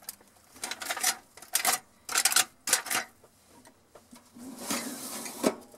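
A series of clicks and light metal clatters, then a short rustle near the end, as a foil pan of chicken is loaded into a toaster oven.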